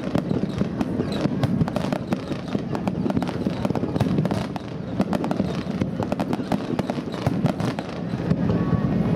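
Fireworks going off in a dense run of sharp cracks and bangs over a steady low rumble.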